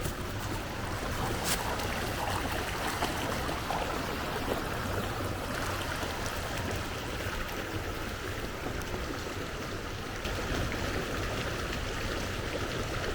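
Waterfall and flood-swollen creek rushing steadily: loud falls.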